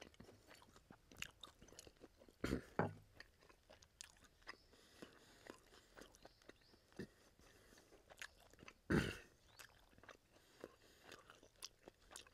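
A person chewing and biting pork ribs close to the microphone: steady wet mouth clicks, with two louder crunches about two and a half and nine seconds in.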